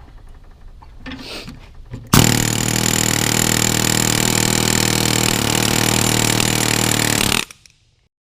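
A handheld power tool ('gun') running steadily at full speed for about five seconds, starting sharply about two seconds in and cutting off abruptly, with light clatter before it.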